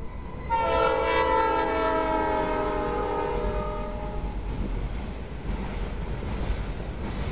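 Norfolk Southern Dash 9-40C locomotive sounding its multi-chime horn as it passes close by, the chord dropping in pitch and fading out about four seconds in. Then the rumble and wheel noise of open hopper cars rolling past.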